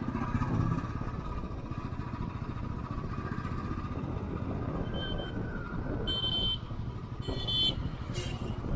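Motorcycle riding on the road, its engine running under heavy wind noise on an action camera's microphone. From about halfway on, three or four short high-pitched sounds come roughly a second apart.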